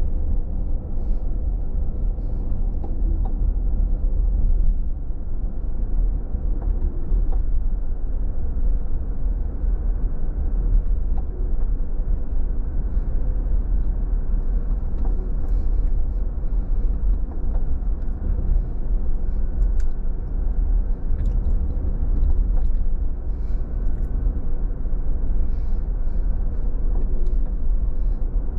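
Car driving at steady speed: a constant low rumble of engine and tyre noise, with faint scattered ticks.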